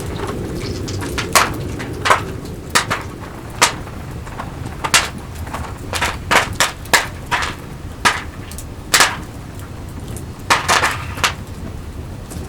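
Wood campfire crackling, with sharp pops at irregular intervals, some in quick clusters, over a steady low rush of burning.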